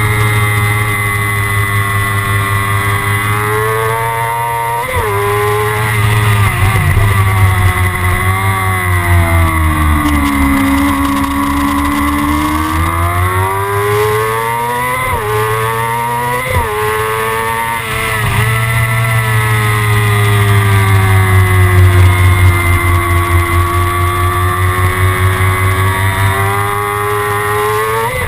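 Kawasaki ZX-6R's inline-four engine running hard under way. Its pitch slowly falls and climbs again with the throttle, with a few quick sharp jumps in pitch at gear changes.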